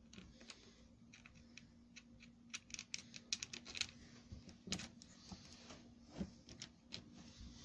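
Faint, irregular small clicks and taps of metal parts being handled as a carburettor and its bolt are fitted back onto a two-stroke hedge trimmer, over a low steady hum.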